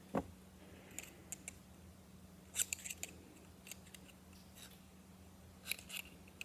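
Scattered sharp clicks and light metallic taps of hydraulic cylinder parts and seals being handled and picked at by hand, with a dull knock just after the start and small clusters of clicks about two and a half and six seconds in, over a steady low hum.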